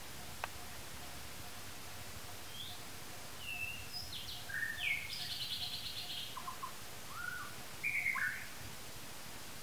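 Wild birds calling: a run of varied short whistled notes and a quick rattling trill, starting about two and a half seconds in, over a steady background hiss.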